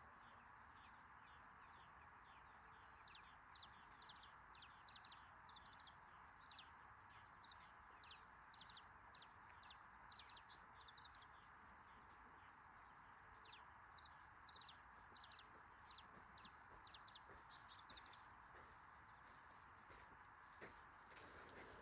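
A bird singing faintly in quick runs of short, high notes, each note sweeping downward, with brief pauses between the runs. A steady faint hiss lies underneath.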